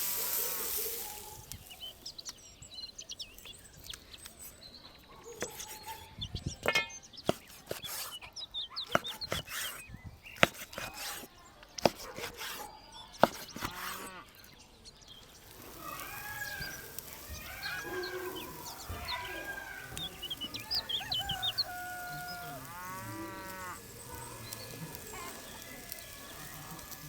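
Chickens clucking and calling in short repeated calls through the second half. Before that, a run of sharp clicks and knocks.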